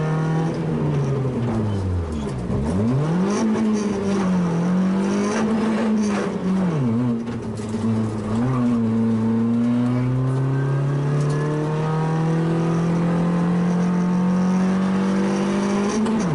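One-litre rally car engine heard from inside the cabin at full stage pace. The revs plunge about two seconds in and then rise and fall through a twisty section. Over the last six seconds the engine pulls in one long rising climb under acceleration, and the revs drop sharply at the very end.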